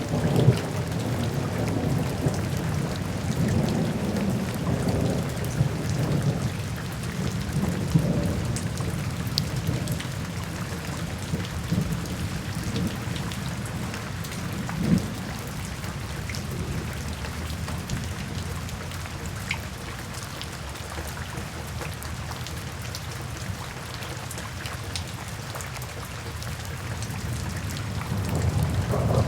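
Steady rain falling, with scattered sharp drop ticks. Low rolling thunder rumbles through the first half, dies down, and builds again near the end.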